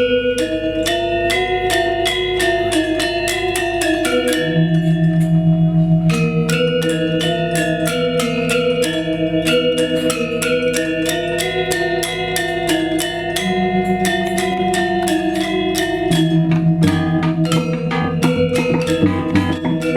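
Balinese gamelan playing the music for a Legong dance: bronze metallophones strike rapid interlocking figures over long ringing tones. Drum strokes come in near the end.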